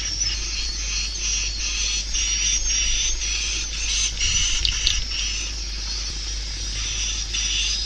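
Swiftlets twittering: a dense, unbroken stream of short, high chirps. It is the kind of swiftlet call track played through tweeters to draw swiftlets into a swiftlet house.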